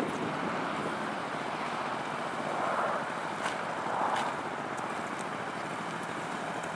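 Motorcycles running, with two soft swells in engine sound about three and four seconds in over a steady rushing background.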